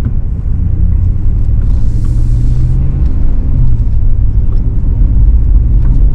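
A car driving: steady low engine and road rumble, with a brief hiss about two seconds in.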